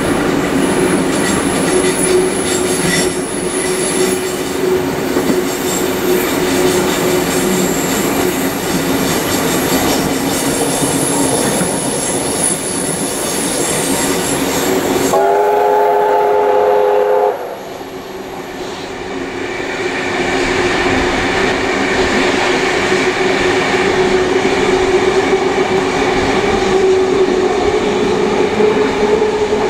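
Train carriages running along the track behind steam locomotive 3801, with thin high wheel squeal on the curves in the first half. About halfway, the locomotive's steam whistle sounds for about two seconds as a chord of several notes. Right after, the running noise drops away suddenly and then gradually builds back up.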